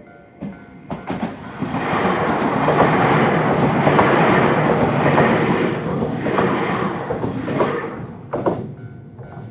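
Keio Inokashira Line 1000 series electric train passing close by: wheel and running noise builds over about two seconds, holds, and dies away by about eight seconds in, with sharp rail-joint clacks as it comes and goes. The level-crossing bell's repeating ding is heard at the start and again near the end, buried while the train goes by.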